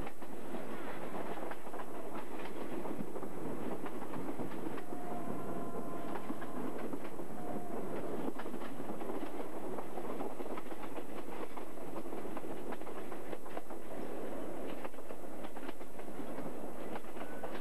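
Passenger train running along the line, heard through an open carriage window: a steady rumble of wheels on rails with continual clicking of rail joints.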